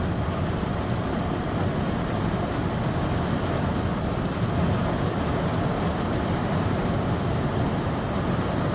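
Heavy rain falling on a car's roof and windows, heard from inside the cabin as a steady, even rush.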